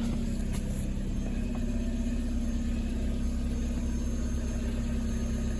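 2008 Vauxhall Astra's engine idling steadily while still cold, about a minute after a cold start in sub-zero frost.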